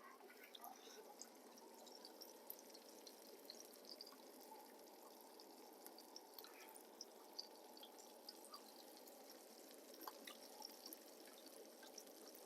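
Faint sizzling of food frying in a pan, an even hiss with scattered small pops and ticks.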